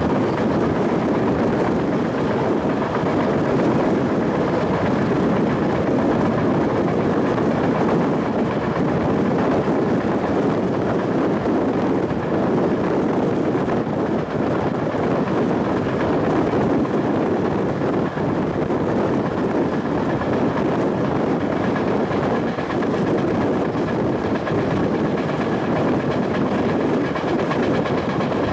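A train of goods wagons running along the line, heard from a coach window at the rear of the train: a steady rumble of wheels on rail.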